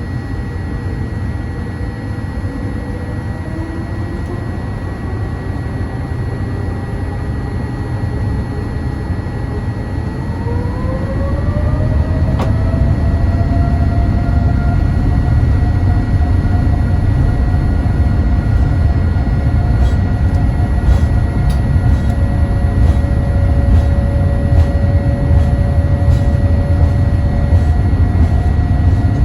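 Boeing 787-8 cabin noise from the front row: a steady low rumble with a whine. About ten seconds in, the whine rises in pitch and the sound gets louder as the Rolls-Royce Trent 1000 engines spool up, then holds steady at the higher pitch.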